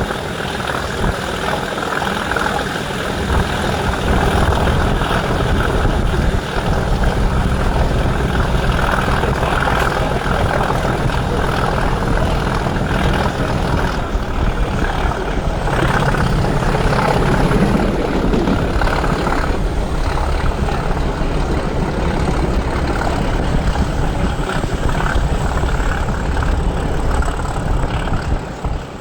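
British Rail Class 37 diesel locomotive's English Electric V12 engine running hard under power, a loud, steady thrash.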